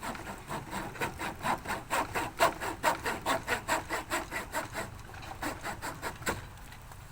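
Hand saw cutting with quick, even back-and-forth strokes, about four a second, growing louder and then stopping about six seconds in.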